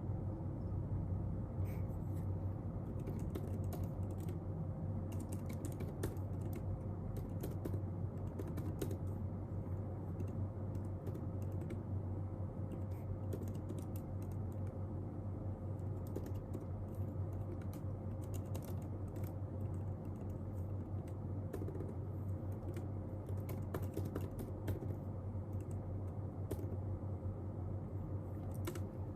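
Typing on a computer keyboard: irregular runs of key clicks with pauses between them, over a steady low hum.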